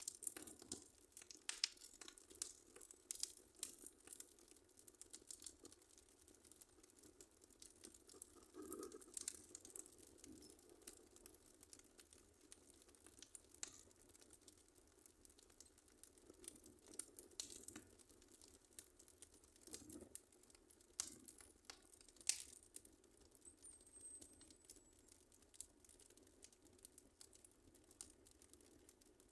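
Wood fire crackling in a fireplace, quietly: irregular small pops and snaps over a soft low hiss, with one sharper pop about three-quarters of the way through.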